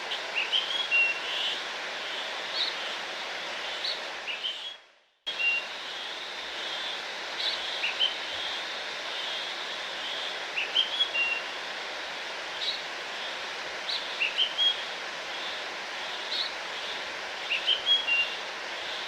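Steady rush of a waterfall with a songbird repeating a short chirping phrase every few seconds. The sound fades out about four and a half seconds in and cuts back in abruptly half a second later.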